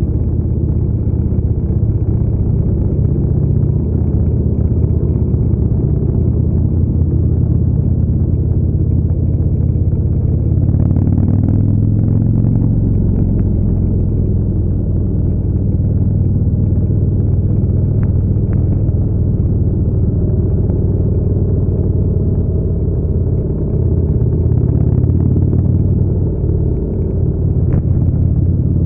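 Harley-Davidson motorcycle engine running steadily at highway cruising speed, heard from on the bike, with wind noise over the microphone.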